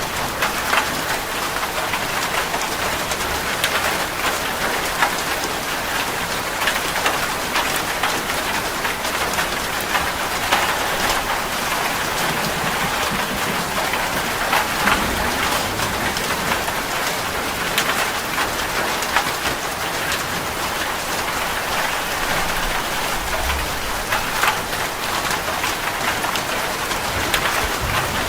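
Steady rain falling, a dense even patter with many individual drops.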